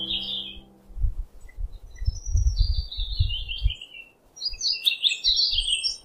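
Small birds chirping in several bursts of quick high calls. Underneath are soft, low, dull thuds from a small trowel scooping damp sand mix.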